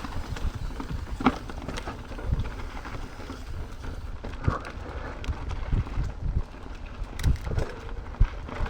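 Mountain bike clattering and rattling over a rough, bumpy downhill trail, with tyres rumbling on dirt and irregular knocks from hits on the terrain.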